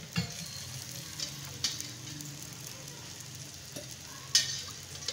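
Keema-stuffed paratha frying in ghee on a hot tawa: a steady sizzle, broken by a few sharp clicks, the loudest about four seconds in.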